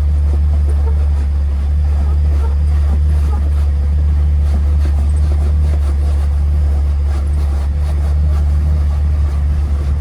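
Jeep engine running steadily at low speed and under load while the Jeep crawls up a rock ledge.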